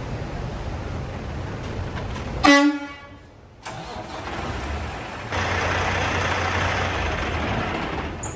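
A single short vehicle-horn toot about two and a half seconds in, over a steady low rumble. The sound then drops away abruptly, and from about halfway through a steady hiss with a low hum underneath takes over.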